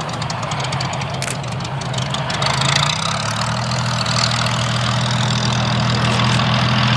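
Rolls-Royce Merlin V12 piston engine of a Second World War fighter running throttled back as it comes in to land, a steady low drone with crackle. Its pitch shifts about three seconds in.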